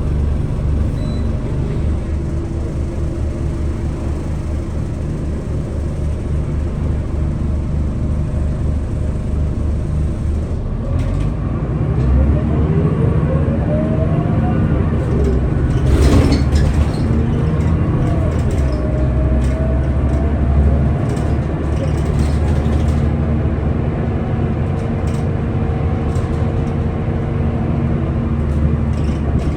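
Scania L94UB bus's diesel engine running with a steady low rumble. About twelve seconds in it pulls harder, with rising whines, and a single sharp knock comes shortly after. Steady whines continue under the engine through the rest.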